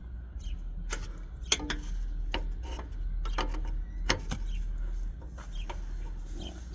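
Irregular sharp metallic clicks and taps as a power steering hose fitting and hand tools are handled against metal parts, over a steady low hum.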